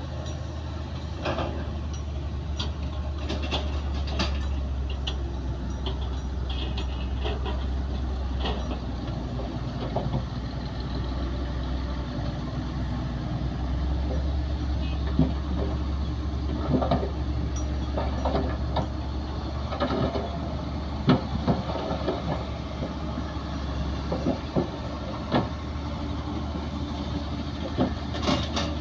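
Crawler bulldozer's diesel engine running steadily, with irregular metallic clanks and knocks from its tracks as it works soil.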